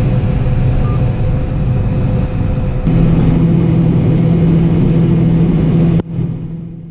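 John Deere 9570 combine running steadily while harvesting corn: a continuous low machine drone. About three seconds in, the drone shifts abruptly to a higher steady pitch, and near the end it drops away suddenly.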